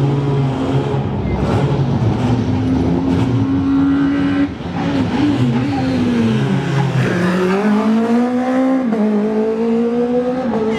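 Rally car engine at high revs. About halfway in the throttle lifts briefly and the revs drop and wander, then climb again under acceleration, with a gear change near the end.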